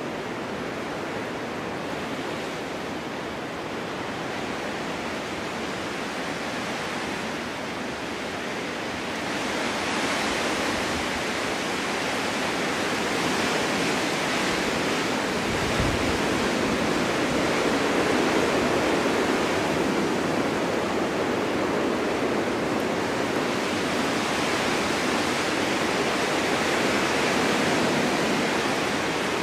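Winter wind blowing hard and steadily, swelling into stronger gusts about a third of the way in and staying louder, with a brief low buffet about halfway through.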